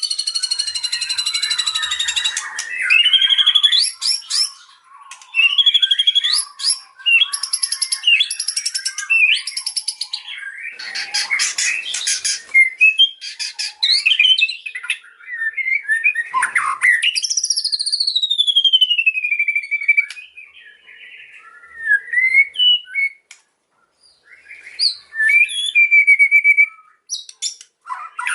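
White-rumped shama singing a loud, varied song of fast trills, chattering phrases and clear whistles, including one long whistle that slides steadily down in pitch about halfway through.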